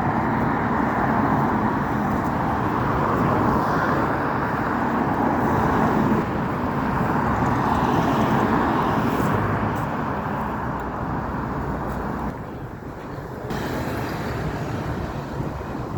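Road traffic: vehicles driving past with steady engine and tyre noise, louder through the first half and easing off about twelve seconds in.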